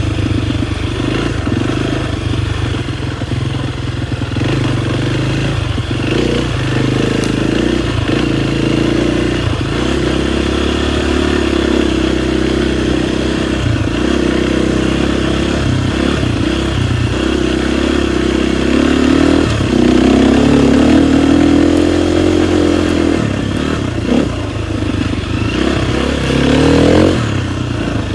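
KTM 250 XCF-W four-stroke single-cylinder dirt bike engine running under throttle, its revs rising and falling, with a quick rise in pitch near the end.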